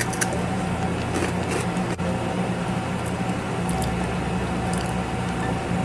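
Mouth chewing crunchy dark-chocolate-covered crispy quinoa bites, with faint crunches now and then over a steady low hum.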